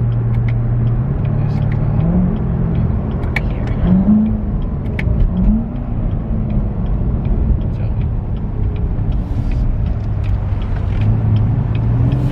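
Chevrolet Corvette Grand Sport's 6.2-litre V8 heard from inside the cabin while driving, its pitch rising three times in the first six seconds as the car accelerates, then running steadily.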